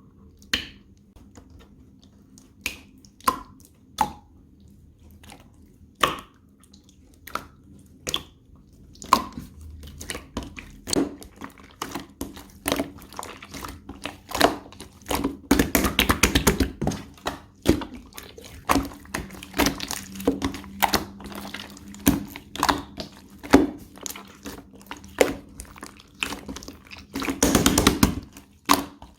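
Clear slime being poked, pressed and stretched by hand, making sharp sticky pops and clicks. They come one at a time at first, then thick and fast from about a third of the way in, with dense crackling bursts near the middle and again near the end.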